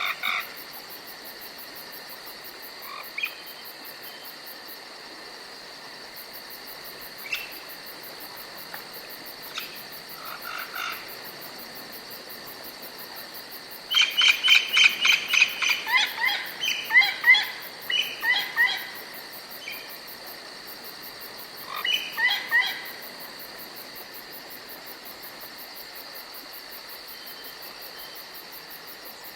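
Forest ambience with steady high insect chirring, like crickets, and scattered short animal calls. About halfway through comes a loud run of rapid, repeated calls lasting several seconds, then a shorter burst a few seconds later.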